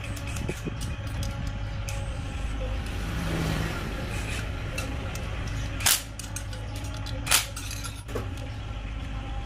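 Home-built 250cc two-cylinder conversion of a Honda Wave motorcycle engine running steadily, with small clicks and two sharp cracks about six and seven and a half seconds in.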